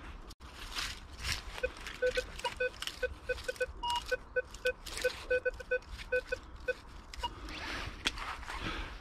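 Minelab Vanquish 440 metal detector sounding a rapid run of short low beeps as it passes back and forth over a buried target, with one higher-pitched beep near four seconds in. Short scraping and rustling noises run throughout as the coil brushes the ground.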